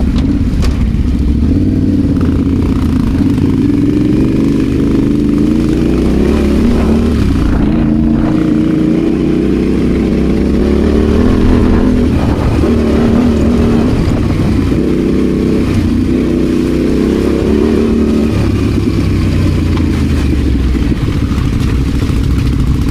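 Adventure motorcycle engine running off road, its revs rising and falling as the throttle is worked.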